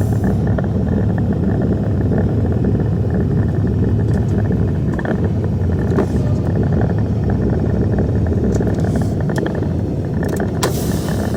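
Semi-truck running, a steady low rumble of engine and road noise.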